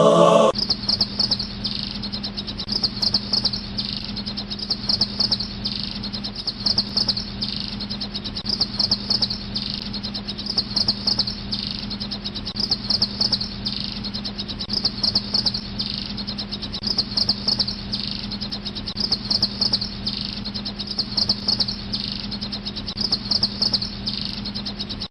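Insect chirping: fast pulsed trills in a narrow high band, swelling about every two seconds, over a steady low hum.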